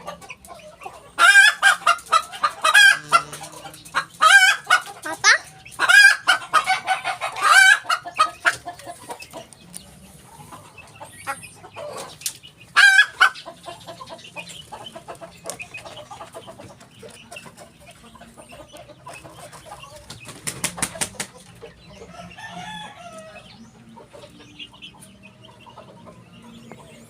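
Ko Shamo hen calling loudly and repeatedly, a run of harsh pitched calls through the first eight seconds and one more about thirteen seconds in, then only faint, softer calls. A brief clatter comes about twenty-one seconds in.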